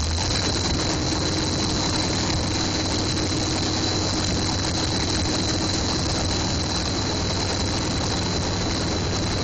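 Race car engine running at a steady idle.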